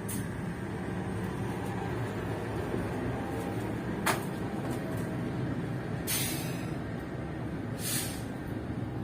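Steady rumble of a passenger train running on the rails, with a sharp click about four seconds in and two short hisses near the end.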